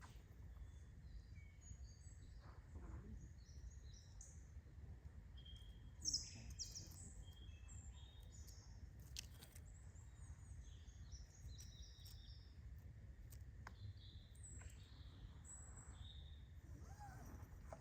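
Small birds chirping and twittering: many short, high notes scattered throughout, over a faint steady low rumble of outdoor background noise. The loudest chirp comes about six seconds in.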